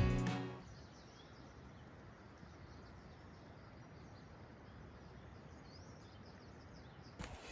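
Background music fades out in the first second, leaving faint outdoor ambience with a few faint bird chirps. A new sound comes in at the very end.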